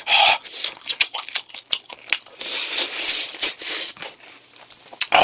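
Close-up eating sounds: biting and chewing sauced fried chicken, with many small wet mouth clicks and short noisy breaths between bites.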